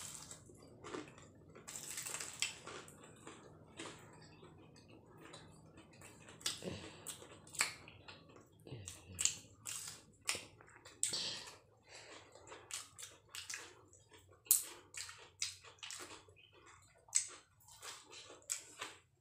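Two people biting and chewing crisp deep-fried singaras (Bengali samosas): a run of irregular crunches and crackles from the fried pastry.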